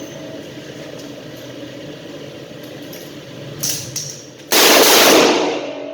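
Two short clicks, then a single revolver shot about four and a half seconds in, ringing out for about a second.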